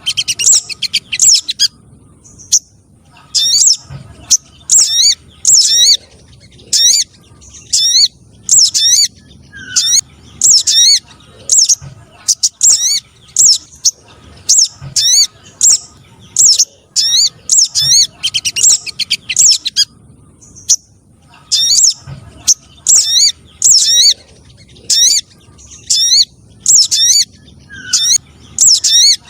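Recorded spiderhunter (sogon trotol) calls played as a bird lure: loud, sharp, high-pitched chirps in quick bursts that repeat about once a second, with short pauses between runs.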